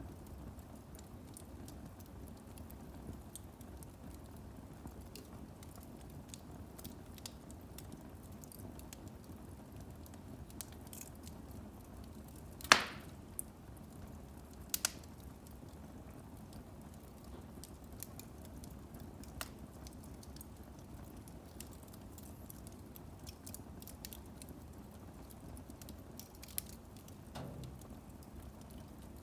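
Firewood burning in a fireplace: a steady low rumble of the fire with scattered small crackles. One loud, sharp pop comes a little before halfway, and a smaller double pop follows about two seconds later.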